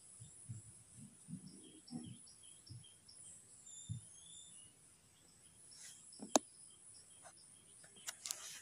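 A bird outside calling faintly, a rapid run of short high chirps about three a second, then a couple of brief gliding whistles. Soft low thumps in the first few seconds, and one sharp click a little past six seconds in.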